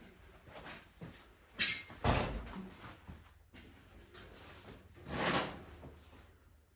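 Handling noises from work on garage door hardware: a sharp metallic clink, a heavier knock about half a second later, and a brief scrape or slide a few seconds on.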